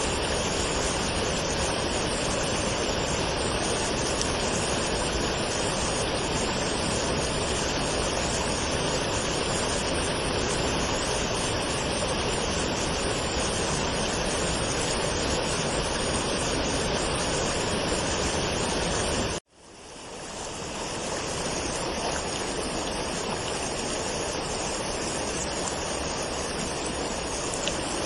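Waterfall: a steady, even rush of falling water. About two-thirds of the way through, it cuts out abruptly, then fades back up over a second or two and carries on as before.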